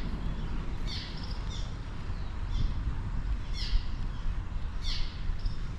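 Birds calling: short, high chirps that sweep downward, about six of them, some in quick pairs, over a steady low rumble.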